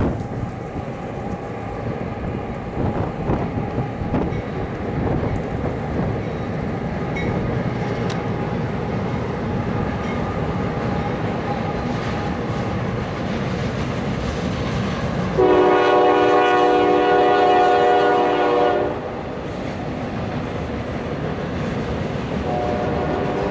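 Norfolk Southern double-stack intermodal freight train rolling across a steel truss bridge, with a steady rumble and clickety-clack of the cars. Past the middle the locomotive's horn sounds one loud chord of about three seconds, and it starts again more faintly near the end.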